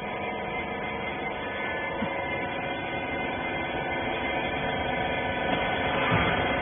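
Rag baler's motor running: a steady machine hum with several steady tones, slowly getting louder toward the end.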